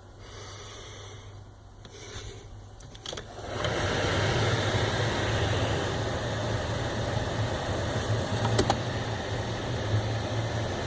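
A steady mechanical running noise from the Jeep Wrangler comes on about three and a half seconds in and carries on evenly, with a low hum under it.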